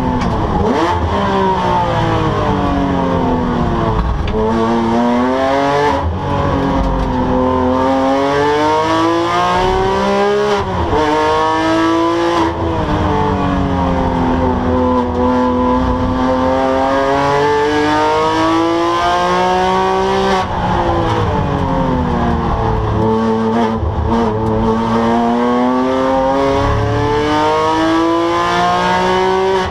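Porsche 997 GT3's flat-six engine under race driving, its pitch sweeping down and climbing again several times. Its pitch breaks off abruptly at each gear change.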